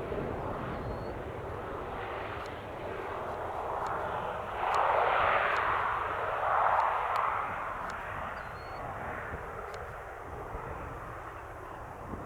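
Airplane passing: steady engine noise that swells to its loudest about five seconds in, then fades back.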